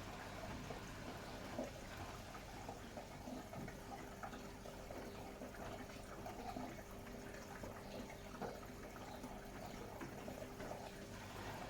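Bosch Serie 6 WAT286V0 washing machine on a 90 °C boil wash: water running and splashing in the drum. A faint steady hum stops shortly before the end.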